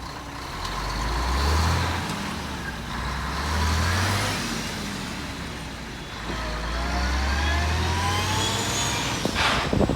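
A big truck's engine pulling away. Its note rises and drops back three times as it accelerates through the gears.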